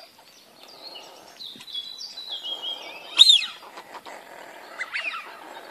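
Birds calling: high chirps and whistling calls that slide up and down in pitch, the loudest a single arched call about three seconds in.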